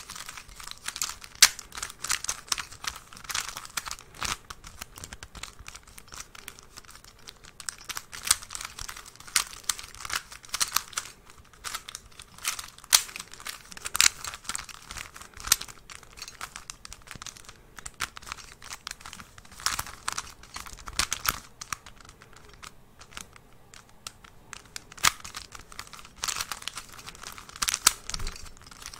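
Close-miked crinkling and crackling of something crinkly being handled: dense, irregular sharp crackles, thinning out for a few seconds past the two-thirds mark.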